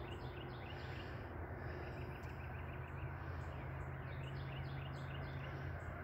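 Birds chirping in the trees: many short chirps in quick runs, over a steady low hum.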